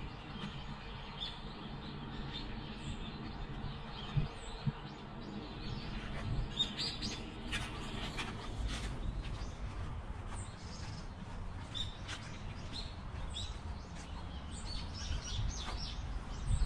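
Small birds chirping, with short high calls scattered throughout over a steady low outdoor rumble. A brief low thump comes about four seconds in.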